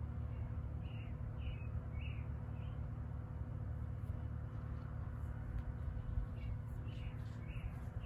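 A small bird chirping, two short runs of quick calls about half a second apart, over a steady low rumble.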